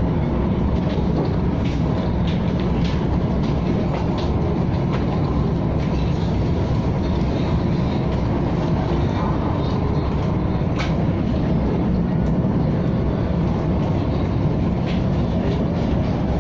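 KTM ETS electric train running steadily: a constant rumble with scattered faint clicks.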